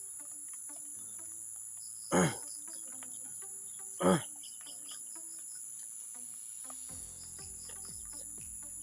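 Steady high chirring of crickets. A man's voice gives two short 'ah' exhales falling in pitch, about two and four seconds in, from the heat of spicy food.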